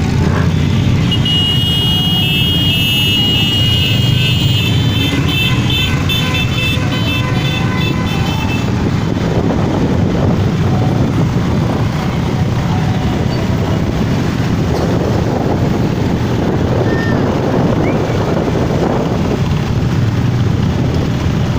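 Motorcycles running in a steady passing stream, with a horn tooting in short repeated blasts during the first several seconds.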